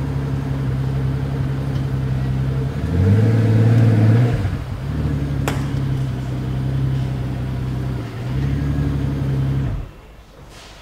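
Pagani Huayra's twin-turbo AMG V12 idling steadily, its note swelling louder and changing pitch for about a second and a half a few seconds in before settling back to idle. A sharp click sounds about halfway through, and the engine sound cuts off abruptly near the end.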